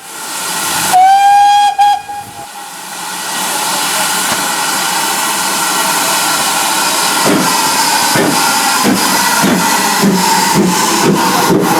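Steam locomotive whistle blown once for about a second, followed by a steady hiss of steam. From about seven seconds in, exhaust chuffs begin and quicken as the engine starts away.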